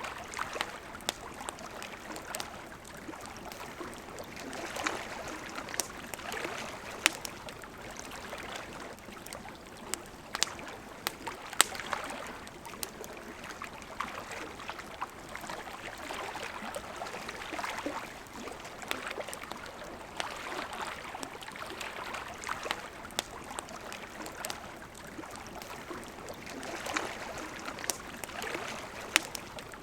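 Wood campfire crackling with scattered sharp pops over the steady rush of flowing river water; one pop about twelve seconds in stands out as the loudest.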